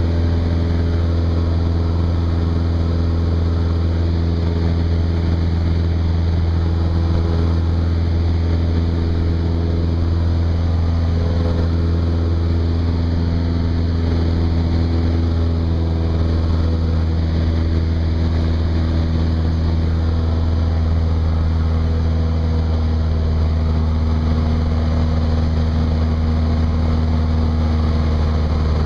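Cessna 172's piston engine and propeller running steadily: an even, low drone with no breaks.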